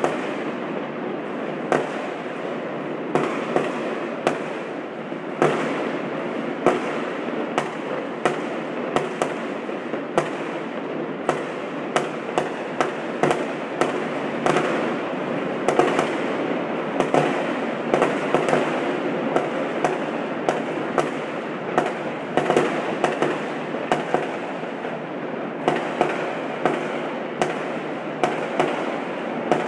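Fireworks exploding: sharp pops and cracks, one or two a second, over a continuous rushing din.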